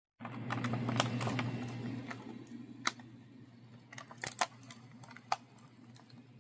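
Irregular sharp clicks and crackles of plastic packaging and a toy figure being handled and opened, densest early on and again a little past halfway, over a low steady hum.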